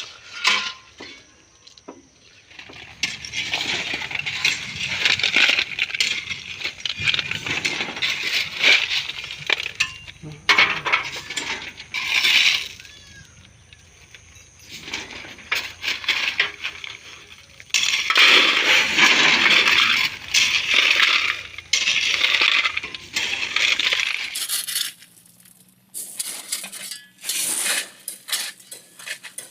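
Gravel crunching and clinking in repeated stretches of a second or more, over a low steady hum that stops a few seconds before the end.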